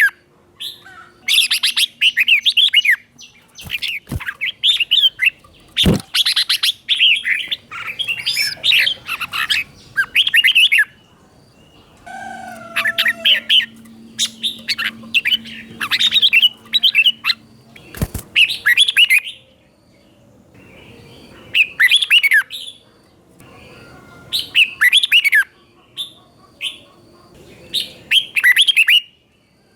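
Red-whiskered bulbul singing short phrases of quick, high, sliding notes, over and over with brief pauses between them. A few sharp clicks fall between the phrases.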